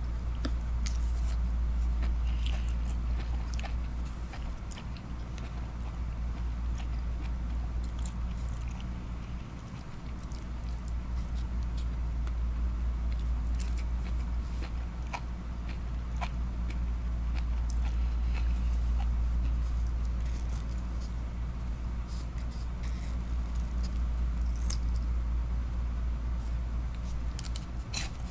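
Close-up chewing of jellyfish and seaweed salad: scattered small wet mouth clicks, over a steady low hum.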